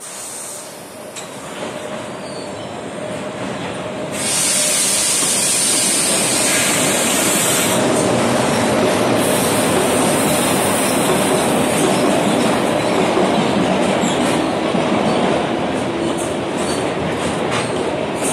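London Underground battery locomotive and engineering wagons running through the station, growing louder over the first few seconds as the train comes out of the tunnel. Once alongside, there is a sustained high wheel squeal, then the wagons' wheels clatter over the rail joints.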